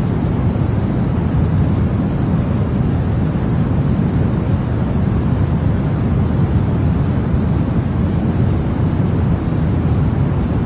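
Continuous white-noise track for soothing a baby to sleep: an unbroken, even hiss that is deep and rumbly, weighted to the low end, with no change in level.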